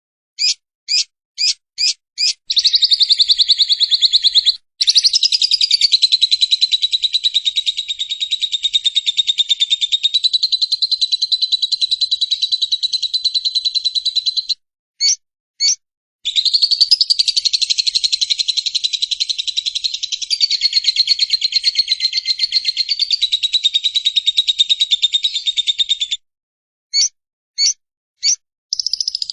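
Lovebird giving its long 'ngekek' chatter: a very rapid, shrill, unbroken stream of notes held for about ten seconds at a time, twice, with a few short single chips before and between the bouts and a new bout starting near the end.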